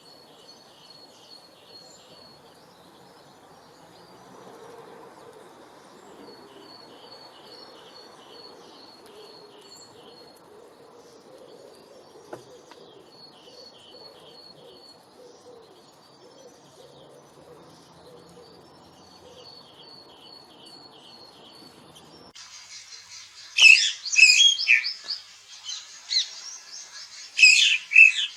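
Birds singing: repeated short trilled phrases of quick notes, fairly faint. About 22 seconds in, the sound cuts abruptly to louder, close chirping calls in quick bursts.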